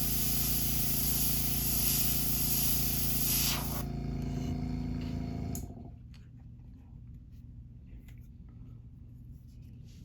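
Airbrush spraying paint with a steady hiss over the hum of its air compressor. The spray stops about four seconds in, and the compressor shuts off about two seconds later, leaving only a few faint small clicks.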